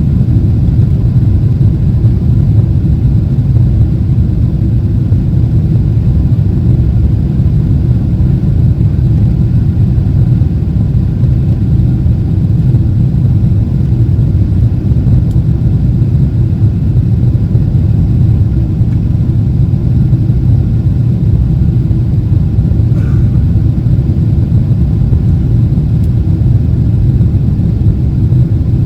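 Steady low rumble inside the cabin of a Boeing 777-300ER airliner, unchanging throughout.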